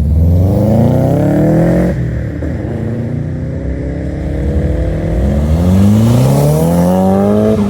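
Loud car engine accelerating hard: its pitch climbs steeply for about two seconds, drops and runs lower, then climbs steeply again near the end.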